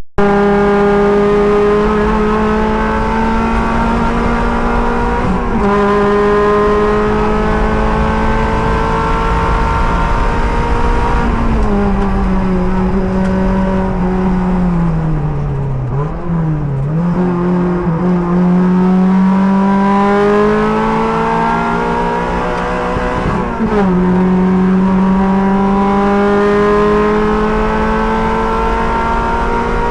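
Race car's engine running hard, heard from the driver's helmet on track. The engine note holds high, falls away around the middle as the car slows, then climbs back up. There is a momentary dropout at the very start.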